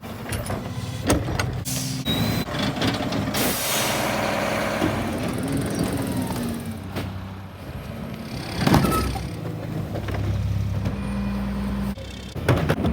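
Rear-loader garbage truck running, with knocks and clanks and a loud hiss of air about four seconds in.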